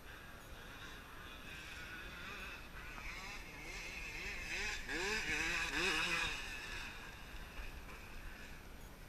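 Motocross dirt bike engine revving hard in repeated rising surges as it passes. It grows louder to a peak about five to six seconds in, then fades away.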